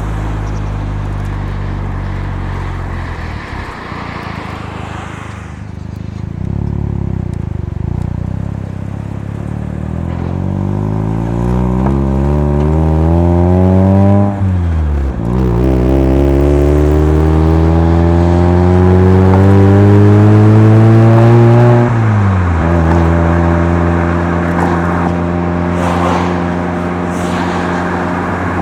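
Mazda FC3S RX-7's turbocharged 13B two-rotor engine through a Knight Sports Legal Sports muffler under acceleration: the revs climb steadily for several seconds, drop sharply at an upshift about halfway through, climb again, then fall off and settle into a steady cruise.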